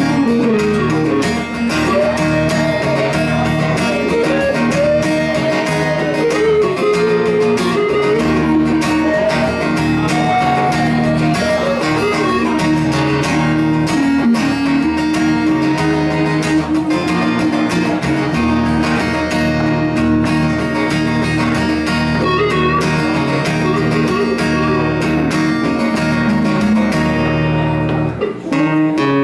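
Live band playing an instrumental passage: a guitar lead with bending notes over strummed guitar and a steady rhythm section, with no singing. The sound thins and dips briefly near the end.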